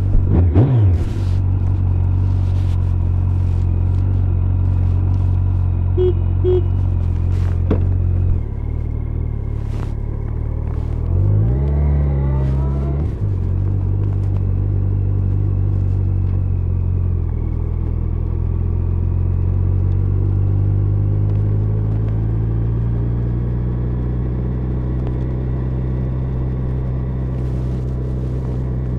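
Yamaha FZ1's inline-four engine running under way, heard muffled from inside layers of jackets. The revs rise right at the start, drop about eight seconds in, climb again around eleven to thirteen seconds, then hold steady.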